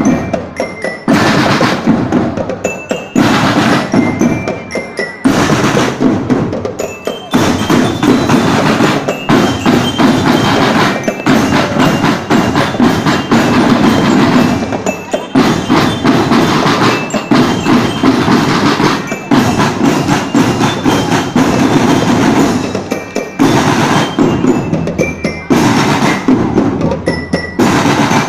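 Marching drum band playing: a dense beat of drums with short glockenspiel-like bell notes ringing above it. The rhythm breaks off briefly every couple of seconds near the start and again near the end.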